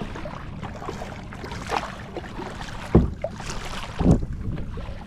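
Kayak paddling: paddle strokes splashing through choppy water, with wind on the microphone and two louder thumps about three and four seconds in.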